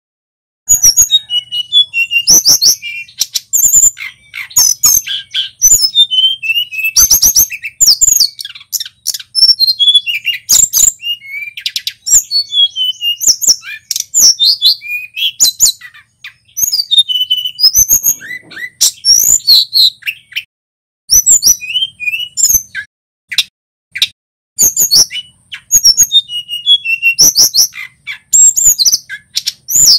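Male tledekan gunung singing: quick runs of high, sliding whistled notes and chirps in bursts, broken by short pauses of about a second.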